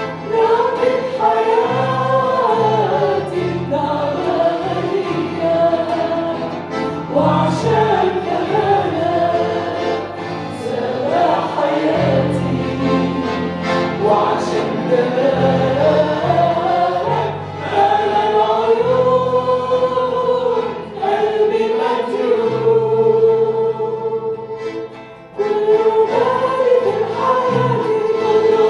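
Congregational worship song: a group of voices singing together over an accompaniment with held bass notes. The music thins out briefly near the end, then comes back in.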